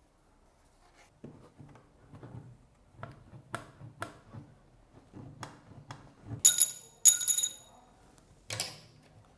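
Hard parts being handled on a work surface: a string of light knocks and clicks, then two loud ringing metallic clinks about half a second apart, and one more clatter near the end.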